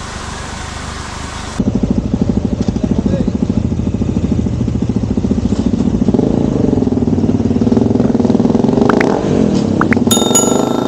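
Motorcycle engine running close by, with steady rapid firing pulses, then pulling away with its pitch rising and falling as it changes speed from about six seconds in. Near the end, a short electronic chime with a few steady high tones.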